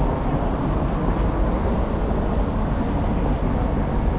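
Steady low rumble of city street ambience, with traffic noise in it.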